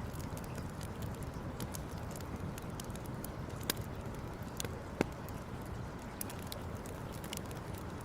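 Campfire crackling: scattered small pops and snaps, with a couple of sharper pops about a third and two-thirds of the way through, over a steady low rumble.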